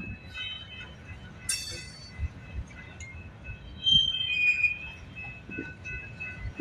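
Freight train cars rolling past with a faint, steady high wheel squeal over a low rumble. A sharp metallic clank comes about a second and a half in, and a louder squeal about four seconds in.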